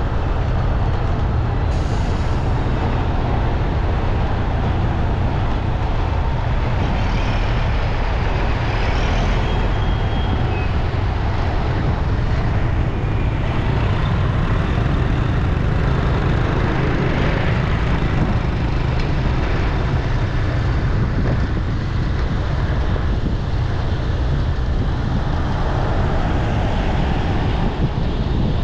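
Steady city street traffic: engines and tyres of passing vehicles making a constant low rumble.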